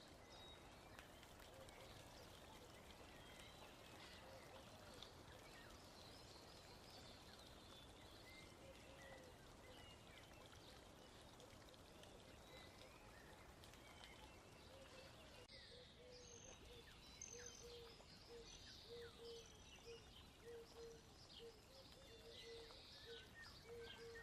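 Near silence: a faint steady background hiss with faint high chirps. From about fifteen seconds in, a faint short tone repeats about one and a half times a second.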